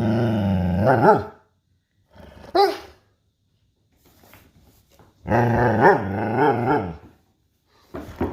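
Sheepadoodle making growl-like, grumbling vocalizations with wavering pitch, as if talking back, in three bouts: a long one at the start, a short one about two and a half seconds in, and another long one from about five seconds in.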